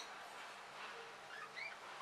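Faint bird chirps: a few short rising notes, a little over halfway through.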